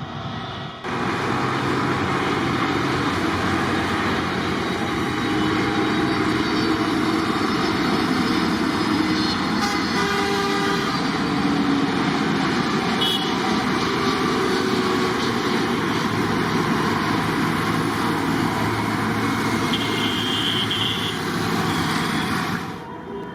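Jet airliner engines at take-off power, a loud steady roar that starts suddenly about a second in and falls away near the end. Short higher tones come through twice, about halfway and near the end.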